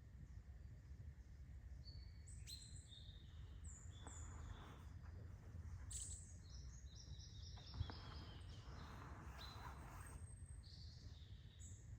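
Wild songbirds calling, with short high chirps and whistles from several birds and a quick run of notes falling in pitch about seven seconds in, over a faint steady low rumble. A single sharp click near the end of that run.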